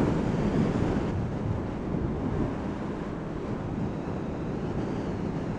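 Wind rushing over the helmet camera's microphone on a moving 2006 Honda VFR800 VTEC motorcycle, with the bike's V4 engine droning faintly underneath. The rush eases a little over the first few seconds, then holds steady.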